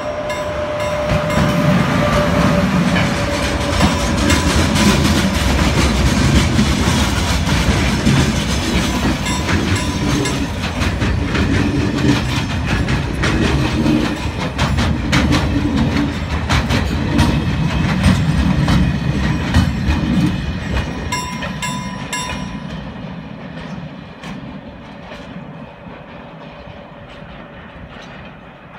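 Short freight train passing close by: the locomotive and wagons rumble past with the wheels clicking over the rail joints, then the sound dies away over the last several seconds as the train moves off.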